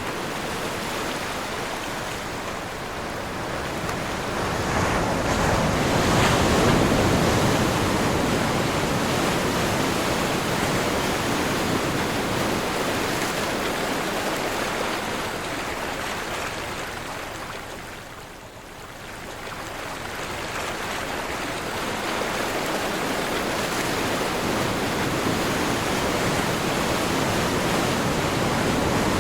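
Sea waves surging and washing in a steady wash of surf, with wind blowing over it. The sound swells and eases, falling away briefly about two-thirds through before building again.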